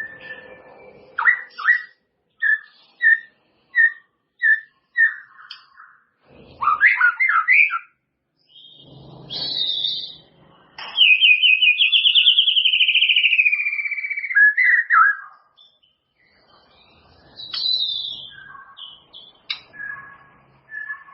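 White-rumped shama singing a varied song of whistles and chirps: a run of about seven short repeated notes early on, a quick jumbled phrase, then a long loud trill that slowly falls in pitch, followed by scattered short notes.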